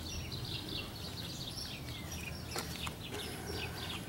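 Birds chirping, many short, high, falling chirps one after another, over a low steady hum.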